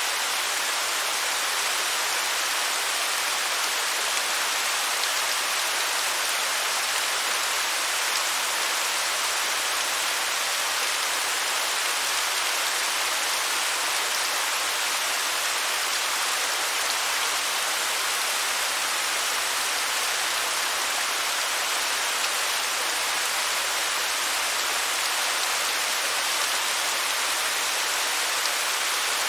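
Waterfall: water cascading in a steady, even hiss, mostly high-pitched with little low rumble, unchanging throughout.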